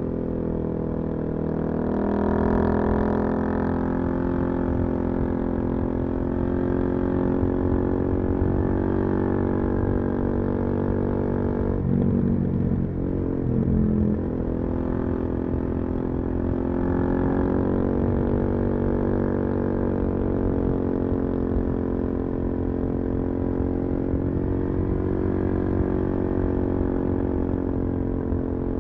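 Suzuki DRZ400SM single-cylinder four-stroke engine through a full Yoshimura exhaust, running at steady cruising throttle, its engine speed rising and falling gently. Its note dips and wavers briefly about halfway through.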